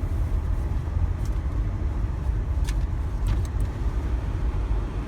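Automatic rollover car wash running: a steady low rumble and an even wash of spray and machine noise, with a few faint ticks about halfway through.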